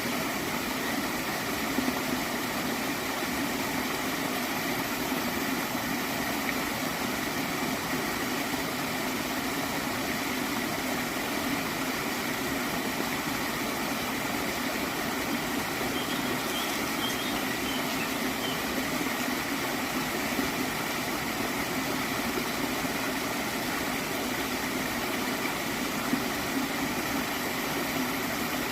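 A gentle stream of water flowing and gurgling steadily.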